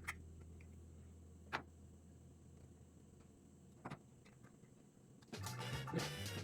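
Three separate sharp clicks over a faint low hum that fades away, then guitar background music starting about five seconds in.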